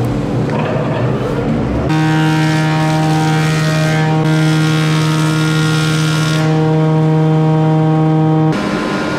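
A woodworking power tool's electric motor running at one steady pitch, starting abruptly about two seconds in and cutting off suddenly near the end.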